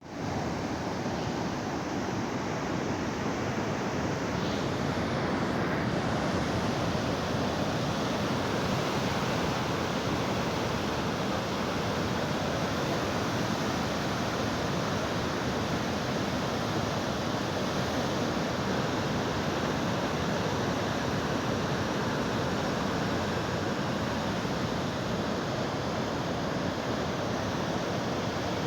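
Steady rush of fast-flowing floodwater on the swollen Yamuna river.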